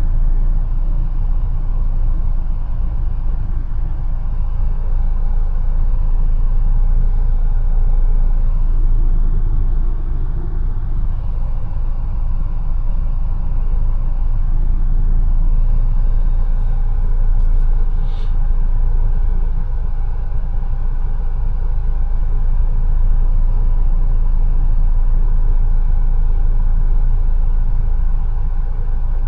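Mercedes-Benz A180 on the move: a steady, deep rumble of engine and road noise, with a few faint ticks about two-thirds of the way through.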